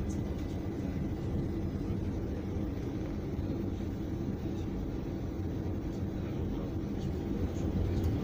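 Steady low rumble of a regional passenger train heard from inside the carriage while it runs, with a few faint ticks.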